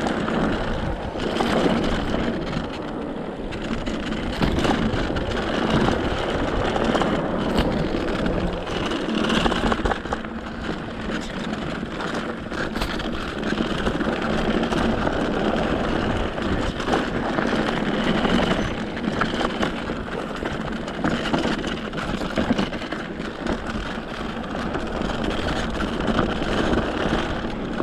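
Mountain bike tyres rolling over a dirt and gravel trail: a continuous crunching rumble scattered with small clicks from stones.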